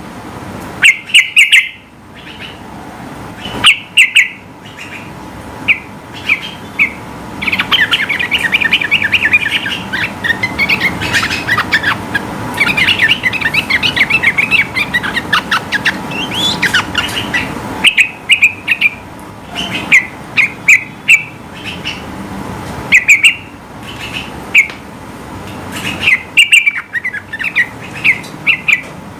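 Sooty-headed bulbul (trucukan) singing: loud, short, clipped calls repeated at intervals, with a long run of rapid, continuous chattering notes from about a quarter of the way in to a little past the middle.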